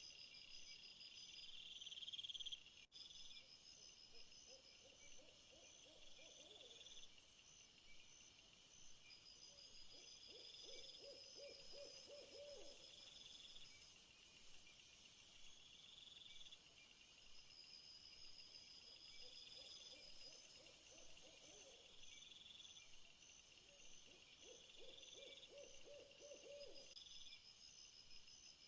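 Faint outdoor nature ambience: insects chirping in repeated high pulsed trills over a high steady hiss. A low trilling animal call repeats every several seconds.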